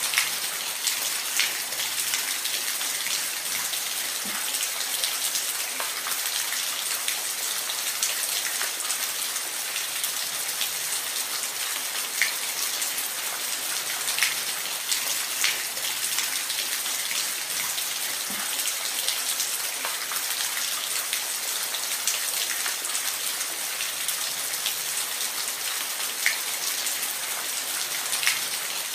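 Steady rain falling, with occasional louder drops striking at irregular moments.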